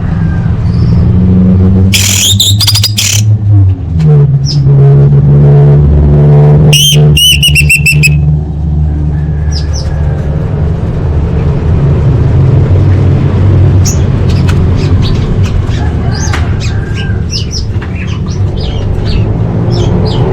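Female orange-headed thrush calling: a quick series of sharp chirps about two seconds in, a louder run of rising chirps around seven seconds, then scattered short chirps near the end. A steady low hum runs underneath.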